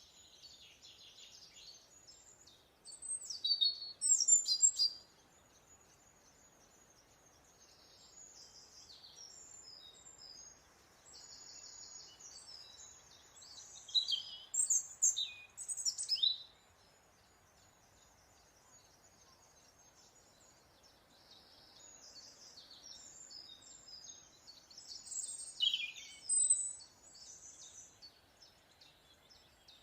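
Small birds singing: a steady high chittering and trilling throughout, broken three times by louder bursts of song with quick falling whistles.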